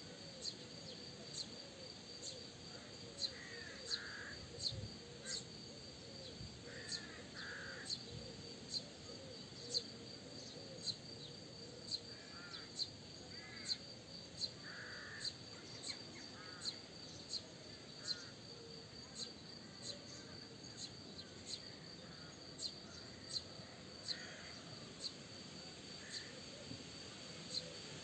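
Birds calling outdoors in short, harsh clusters every few seconds. Behind them are a steady high buzz and a regular sharp ticking, about three ticks every two seconds.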